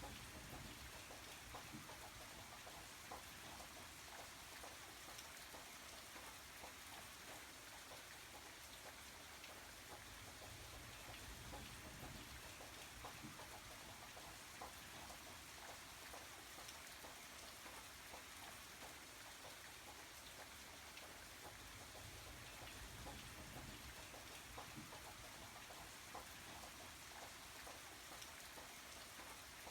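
Steady rain falling, faint: an even hiss with many small scattered drop ticks.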